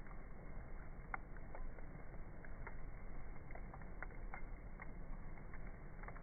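Campfire crackling: about a dozen sharp, irregular pops over a steady low rush.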